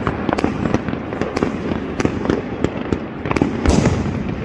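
Fireworks salutes going off non-stop from several launch sites at once: a dense, overlapping run of bangs and pops over a continuous rumble, with one louder bang about three and a half seconds in.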